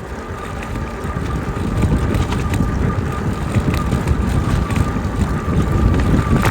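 Riding a Jasion EB7 e-bike: wind buffeting the microphone and a low rumble from the ride, growing louder, over a thin steady whine from the electric motor.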